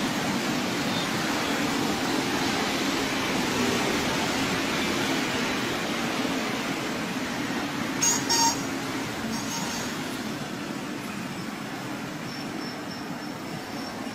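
A train running along the rails, a steady rumble, with two sharp knocks close together about eight seconds in, after which it slowly grows quieter.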